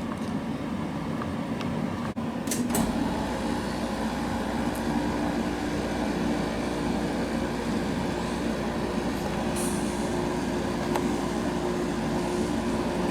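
Samsung 10,200 BTU window air conditioner with its fan running; about two and a half seconds in, after a click, the compressor kicks on and runs steadily, adding a low hum and a steady tone under the fan noise.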